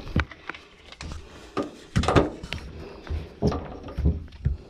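A series of hard knocks and clunks from front-load washer parts being handled, the loudest about two seconds in.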